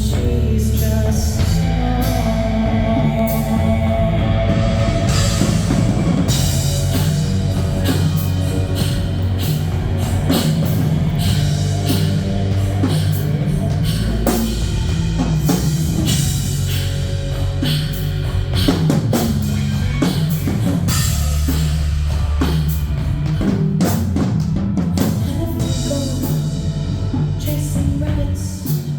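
Live band playing a rock arrangement, with drum kit and bass prominent.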